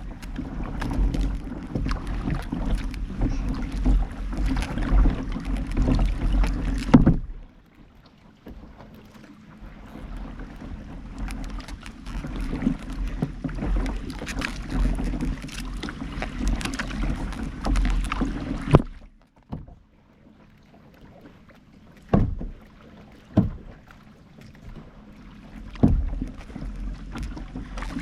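Kayak paddling on the water: paddle strokes and water splashing, with a heavy low rumble on the camera microphone during two long loud stretches that cut off abruptly. Then a quieter stretch with a few sharp knocks.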